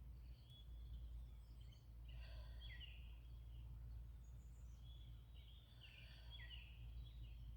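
Faint birdsong: a few short chirping phrases, heard three times, over a low steady rumble.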